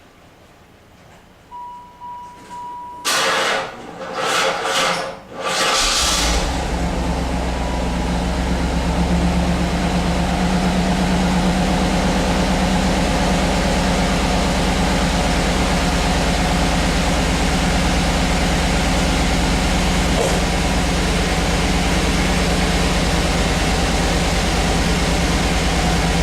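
Cold start of a 1993 Camaro Z28's 5.7-litre LT1 V8 after two months parked in freezing weather: a brief steady beep, then the starter cranking in uneven bursts for about three seconds before the engine catches about six seconds in. It then idles steadily.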